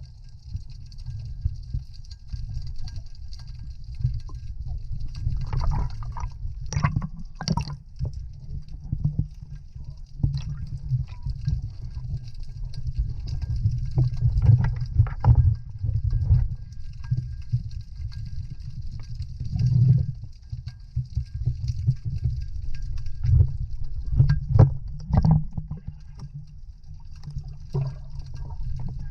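Water gurgling and sloshing over a steady low rumble, with irregular splashes.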